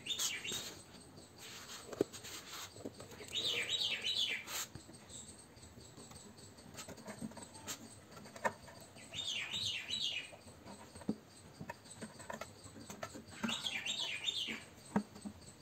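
A small bird singing a short warbling phrase of high chirps that recurs about every five seconds, with a few sharp clicks of hands handling the metal brake-light switch parts.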